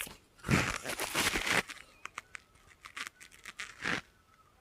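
Rustling, crinkling handling noise close to the microphone, loudest from about half a second to a second and a half in, followed by a scatter of light clicks and taps.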